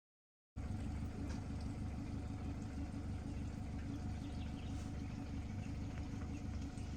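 Safari boat's motor running steadily, a low pulsing rumble that cuts in about half a second in.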